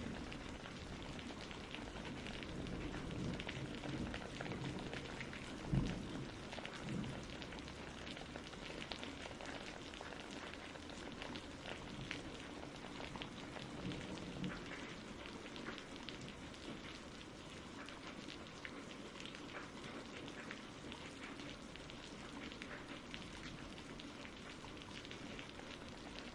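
Steady rain falling, with the patter of individual drops, and a brief low thump about six seconds in.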